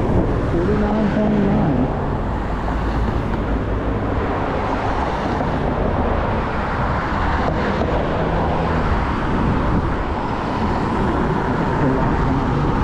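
Steady wind rumble on a GoPro's built-in microphone, mixed with the road noise of an Apollo Go electric scooter riding along.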